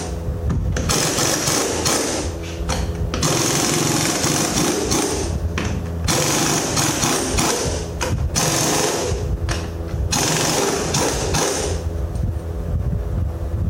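A pneumatic air tool hammering in six bursts of one to two seconds each, with short pauses between them, over a steady low engine or compressor hum, while the front wheel hub of a Mack truck is being taken off.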